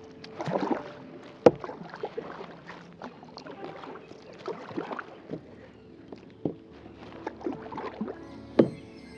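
Kayak paddling: water splashing and swishing as the paddle blades dip, in uneven strokes every second or two, with a couple of sharp knocks, the loudest near the end.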